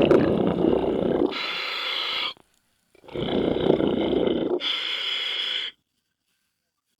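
Scuba diver breathing through a regulator underwater: a rumbling gush of exhaled bubbles followed by a hissing inhale, twice, then the sound cuts off suddenly near the end.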